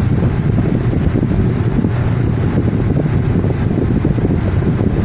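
Rain falling in a steady downpour, heard under a heavy, low rumble of wind buffeting the microphone.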